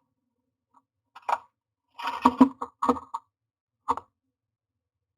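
A common myna in a nest box making a few short, harsh sounds in quick succession, then stopping about four seconds in.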